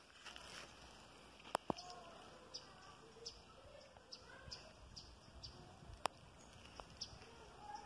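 Faint outdoor ambience with a small bird chirping, short high notes repeating about every half second to second. Two sharp clicks come about a second and a half in, and another near six seconds.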